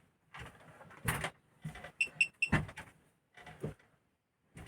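Buttons clicking on a gas/electric fridge's control panel, with a quick run of three short high-pitched beeps about two seconds in, while the fridge shows an E50 fault code.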